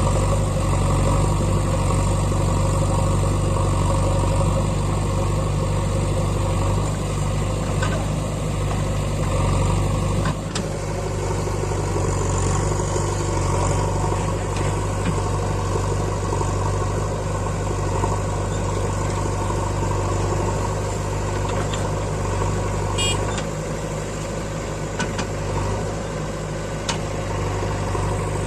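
Heavy diesel engine running steadily at a low, even speed, with a deep, constant hum.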